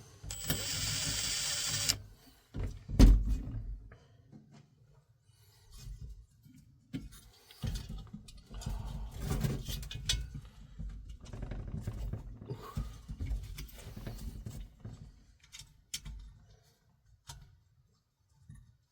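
Parts and tools being handled during bench work on a diesel heater. A brief hiss at the start, a single loud knock about three seconds in, then scattered rustling and small clicks.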